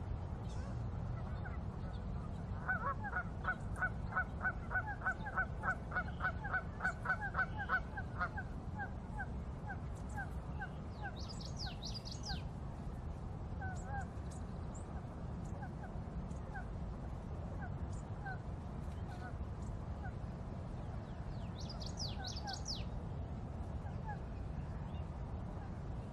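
A bird giving a fast run of honking calls, about three a second, that thins out after a few seconds into scattered single honks. A smaller bird chirps briefly twice, over a steady low background rumble.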